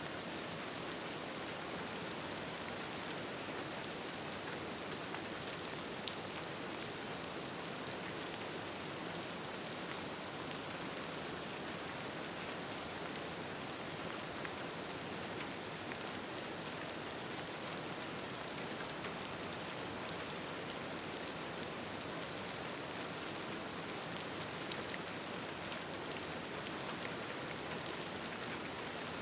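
Steady rain falling, a constant even hiss with scattered faint ticks of individual drops.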